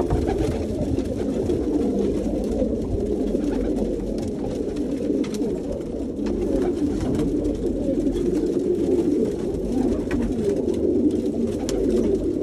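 A flock of domestic pigeons cooing continuously, many voices overlapping, with a few faint clicks scattered through.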